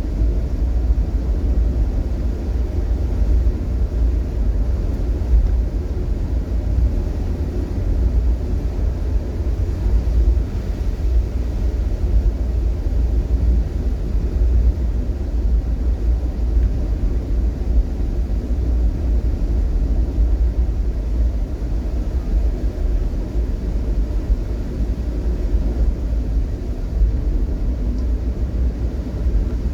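Steady low road and engine rumble of a vehicle driving in traffic, unchanging throughout.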